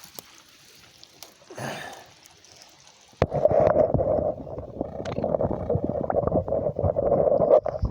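Stream water gurgling and bubbling, muffled, as heard by a phone's microphone pushed under the water. It starts suddenly about three seconds in, full of small crackles and pops.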